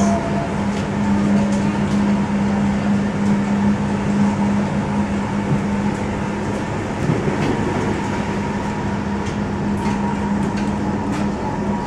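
Steady interior noise of a moving passenger train: a constant hum from the train's drive over the even rumble of the running gear, with a few faint light clicks.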